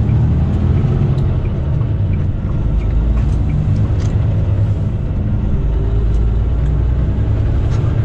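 Semi truck's diesel engine running, a steady low rumble heard from inside the cab.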